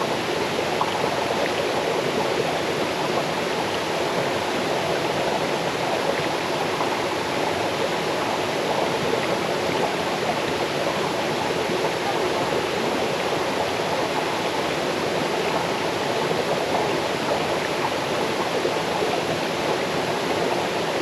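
Waterfall cascading over rocks into a stream, a steady, unbroken rush of water.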